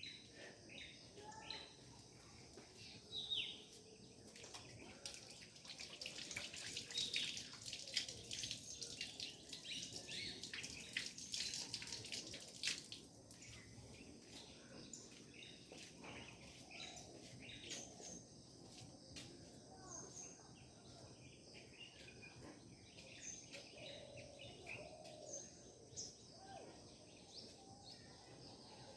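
Several birds singing and calling together, many short high chirps and whistled notes overlapping; the chirping is dense and rapid in the first half, then thins to scattered calls.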